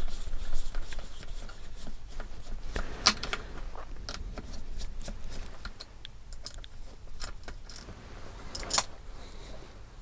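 Small plastic kit parts and hand tools being handled on a workbench: scattered light clicks and taps, with two sharper clicks about three seconds in and near the end.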